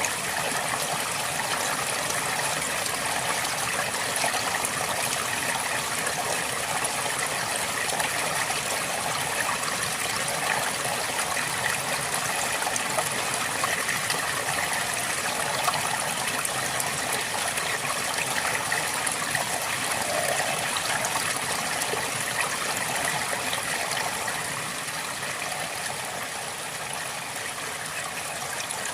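River water flowing and trickling steadily, a continuous rushing and babbling that eases slightly near the end.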